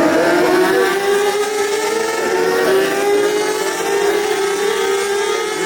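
Racing superbike engines at high revs, several pitched engine notes overlapping and holding fairly steady with slight rises and falls as the bikes run past.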